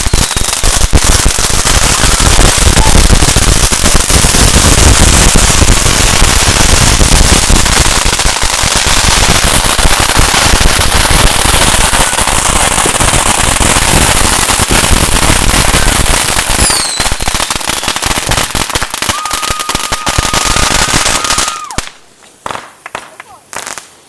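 A long string of firecrackers popping rapidly and without a break, with a short falling whistle and then a steady whistling tone late in the run. The barrage stops suddenly about 21 seconds in, leaving a few scattered bangs.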